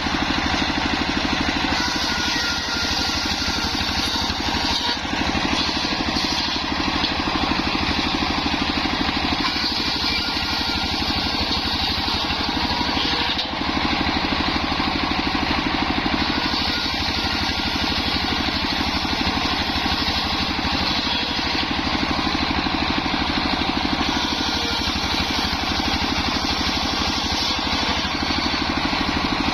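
Homemade engine-driven circular saw rig running steadily with an even engine beat, used to saw waru wood into battens.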